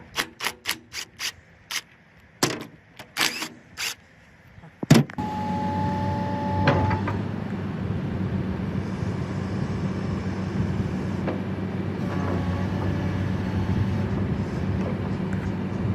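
A quick run of sharp clicks or knocks, about three a second, then a motor starts about five seconds in and runs with a steady low hum.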